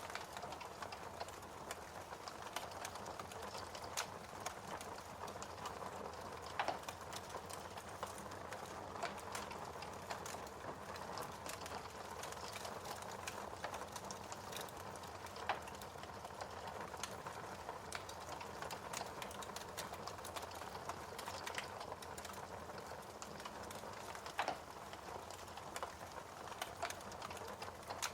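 Fireplace fire crackling steadily, with a few louder, sharp pops scattered through.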